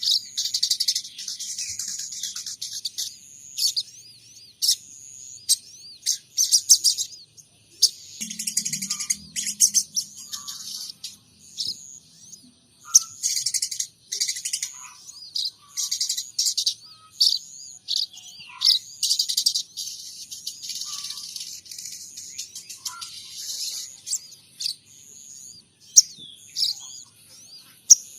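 Sogon trotol songbird singing in repeated bursts of rapid, high chirping, mimicking the calls of munias (pipit) and house sparrows (greja).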